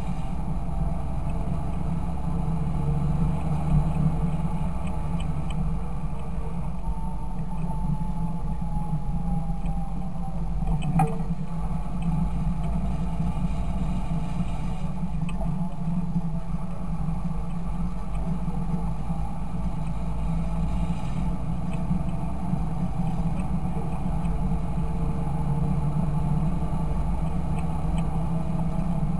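Fendt Favorit 926 tractor's six-cylinder diesel engine running steadily, with a short click about eleven seconds in.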